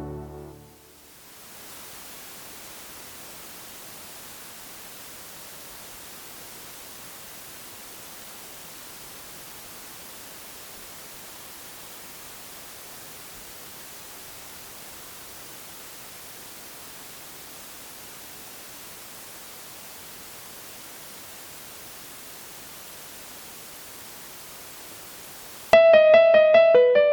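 Steady hiss from a digital keyboard's output wired straight into a camera's audio input, plainly heard in the silence between pieces. The last piano notes die away in the first second, and near the end the keyboard's auto-play starts the next piano piece abruptly.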